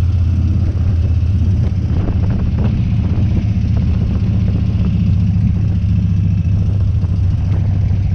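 Harley-Davidson Dyna's V-twin engine running steadily with a low, even note.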